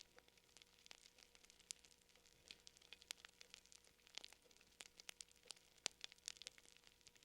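Fire crackling quietly: irregular sharp snaps and pops, several a second, over a faint steady hum.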